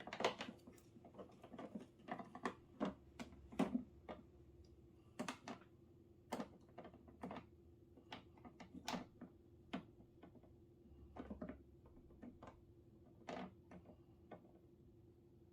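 Scattered light clicks and knocks at an irregular pace, busier in the first half and sparser near the end, over a faint steady hum.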